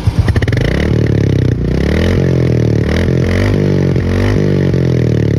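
Royal Enfield Classic 350's single-cylinder engine running, with a rapid beat at first, then a steady pitch that rises and falls with the revs.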